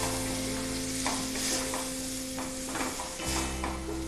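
Minced chicken and spices sizzling in a kadai while a spoon stirs and scrapes repeatedly against the pan, over soft background music of steady held notes.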